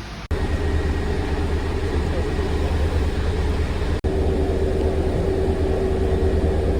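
A vehicle's engine running steadily: a low rumble with a steady hum above it. The sound breaks off for an instant twice.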